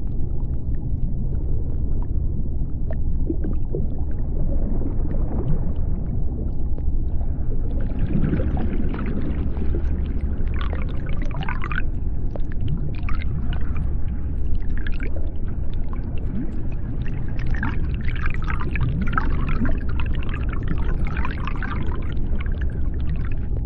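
Underwater sea ambience: a steady deep rumble, with a series of short gliding, whale-like calls that join in after the first few seconds and come thickest near the middle and toward the end.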